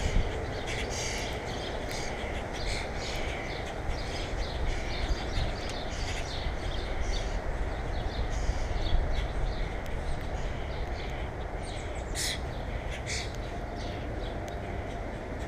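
Small birds chirping at a feeder, with many short high calls scattered throughout and a few sharper chirps near the end, over a steady low rumble.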